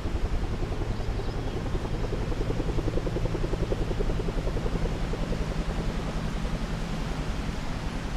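A machine running steadily with a fast pulsing beat over a low hum. It grows a little louder about three seconds in, then slowly fades.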